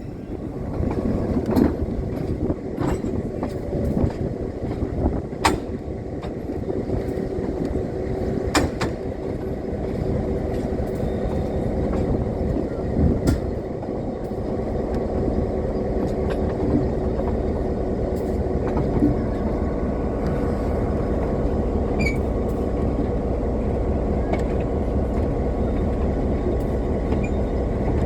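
Belton, Grandview and Kansas City Railroad train #3 running along the track: a steady rumble that grows slightly louder, with scattered sharp clicks and knocks in the first half.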